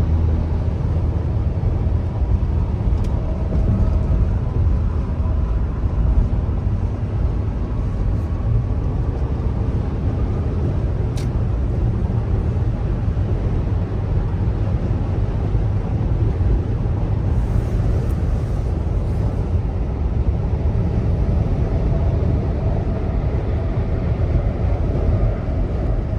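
Steady low rumble of road and wind noise, as heard from a moving car.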